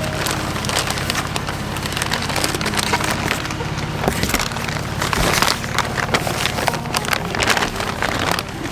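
Sewing machine running at a fast, even stitch, feeding stiff grain-sack material that crinkles and rustles as it goes through.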